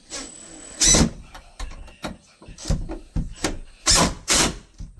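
A series of irregular knocks and scrapes of timber being handled and pressed into place. The strongest knock comes about a second in, and two more come close together near the end.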